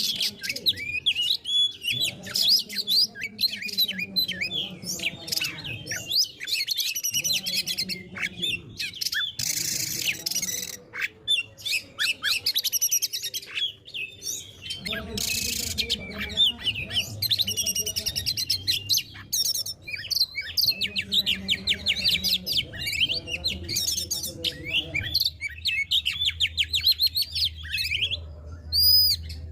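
Oriental magpie-robin (kacer) singing a fast, varied song of rapid whistles and chirps, with a couple of harsh hissing notes about ten and fifteen seconds in.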